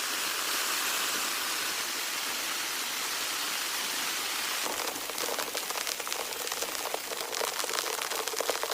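Rain falling: a steady even hiss at first, then from about halfway in, many individual drops striking close by over the hiss.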